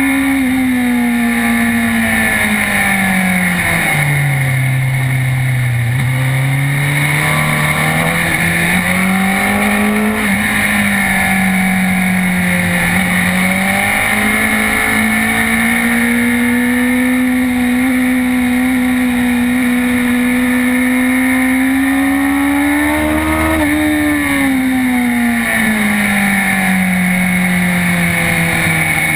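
Sport motorcycle engine running hard on track, its note falling and rising through the corners: it drops about five seconds in, climbs back and holds, then rises briefly near 24 seconds before easing off. Heavy wind rush on the bike-mounted camera's microphone accompanies it throughout.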